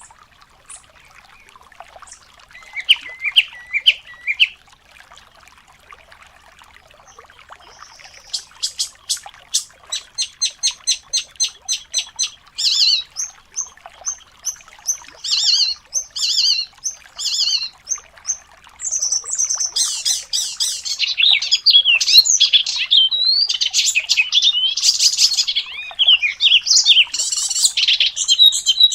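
Recorded songbirds singing, from a mix of icterine warbler, sikatan londo and canary song: a few scattered chirps at first, then fast runs of repeated high notes, and past the middle a dense, unbroken rapid warbling song.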